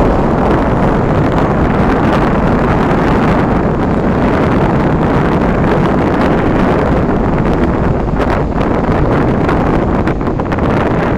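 Strong wind buffeting the microphone, a loud, steady rumbling rush with no let-up, ahead of rain.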